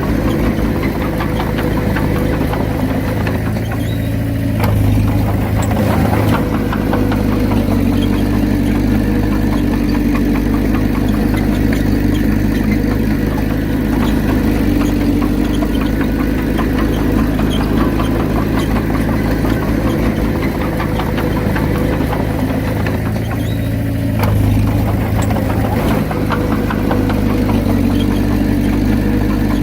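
Diesel engine of a Komatsu D31P crawler bulldozer running steadily, its note changing briefly about four seconds in and again near the end.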